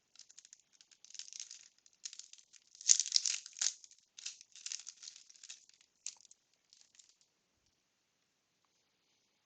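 Rustling and crinkling of a 1992 Bowman wax-paper trading-card pack and its cards being handled, in short scratchy bursts that die away about seven seconds in.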